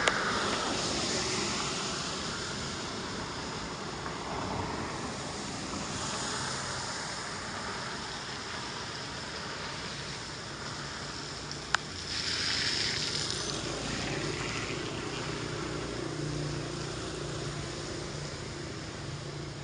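Floodwater rushing down into a storm drain: a steady rushing noise, with two sharp clicks, one at the very start and one about twelve seconds in.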